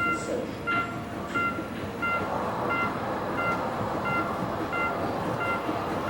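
Electronic railway crossing warning bell beeping steadily, a short pitched tone about three times every two seconds, over a steady background noise as the miniature steam train arrives.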